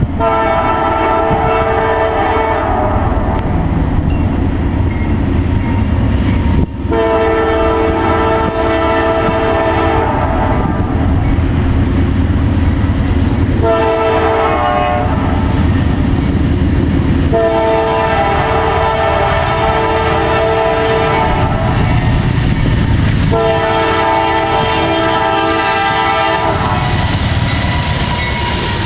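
Diesel freight locomotive's multi-chime air horn sounding the grade-crossing signal, long, long, short, long, with the last blast held, over the steady low rumble of the train passing close by.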